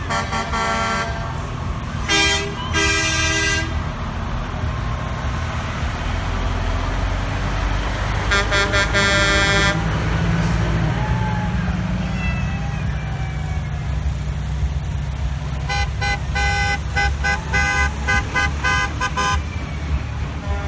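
Truck horns honking over the steady low rumble of big truck engines going by: long blasts near the start and about eight seconds in, then a run of short, quick toots from about sixteen seconds on.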